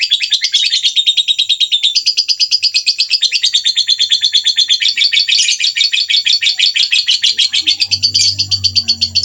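Songbird giving a harsh, rapid 'tembakan kasar' burst call: a fast, unbroken run of rasping chattered notes, about ten a second, high-pitched. A low steady hum joins near the end.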